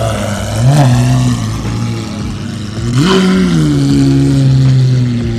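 A car engine revving twice: a short blip about half a second in, then a longer rev near three seconds that winds back down slowly.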